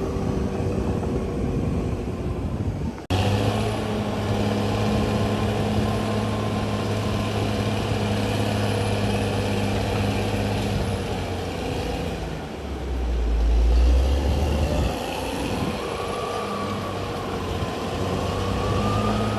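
CAT D6R XL bulldozer's diesel engine running under load, a steady low hum that swells into a deeper, louder rumble about two-thirds of the way through. The sound breaks off abruptly about three seconds in and picks up again at once.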